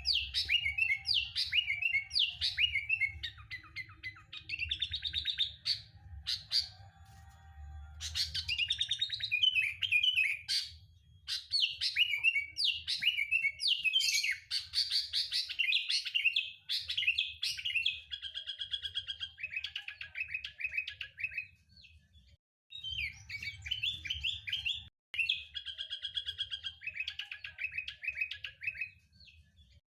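Sooty-headed bulbul (kutilang) singing: bursts of quick chirping and whistled phrases, repeated with short pauses between them, over a faint low hum.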